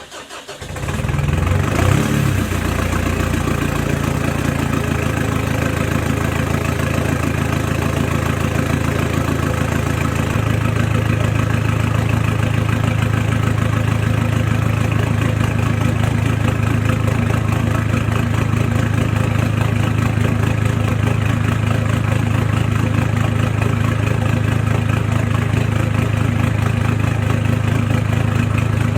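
Mitsubishi Triton (L200) engine cold-started through a new 3-inch Rhino exhaust with a catalytic converter and no muffler. It catches right at the start, flares briefly about two seconds in, then settles into a steady idle whose low hum strengthens a little about ten seconds in.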